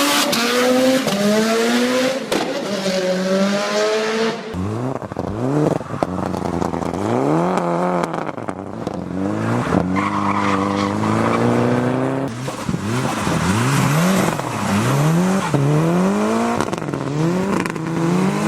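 Four-cylinder racing car engine revving hard through the gears, its pitch climbing and then dropping at each shift, with the sound jumping abruptly to a new take about four and twelve seconds in.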